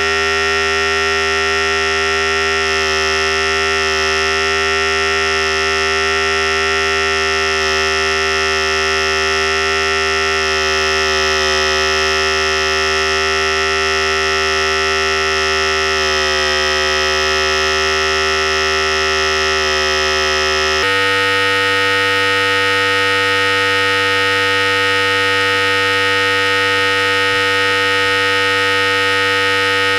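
Philips Series 5000 electric hair clipper running continuously, a steady motor buzz. About two-thirds of the way through, its tone changes abruptly and then holds steady again.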